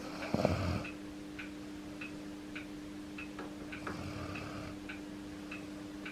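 An ageing Akita dog snoring in its sleep: a short, loud snore about half a second in and a softer one about four seconds in. A clock ticks steadily, a little under two ticks a second, over a steady low hum.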